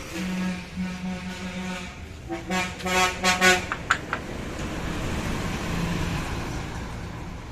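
A vehicle horn honks twice: a long blast of nearly two seconds with brief breaks, then a shorter one about two seconds in. A few sharp clicks follow, then a passing vehicle's noise swells and fades.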